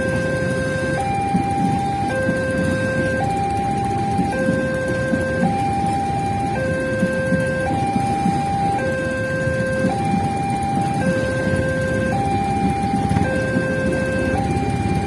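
Railway level-crossing warning alarm sounding a two-tone high-low signal, each tone held for about a second, over a steady low rumble.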